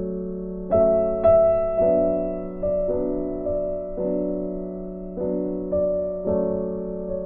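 Background piano music: gentle notes struck about every half second over a held low note, each note fading away.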